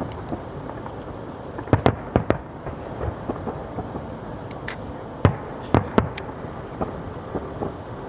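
Aerial fireworks shells bursting: sharp bangs in two clusters, about two seconds in and again around five to six seconds in, with fainter pops between.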